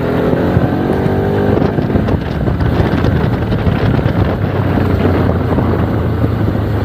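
Motorcycle engine running on the move in traffic, rising in pitch over the first second or so as it speeds up, then holding steady, with wind rushing over the microphone.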